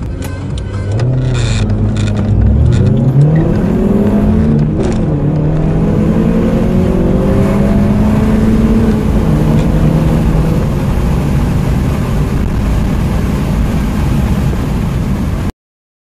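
Two four-cylinder car engines accelerating hard at the same time: the Honda Civic EJ9's 1.4-litre and the VW Polo GTI's 1.4 TSI. Their revs climb and drop back at each gear change, the two pitches crossing one another. The sound cuts off suddenly near the end.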